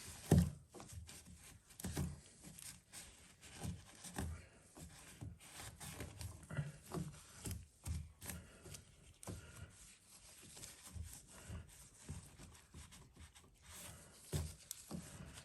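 Cloth wiping and rubbing inside a washing machine's drain pump housing, with scattered light knocks and bumps from handling.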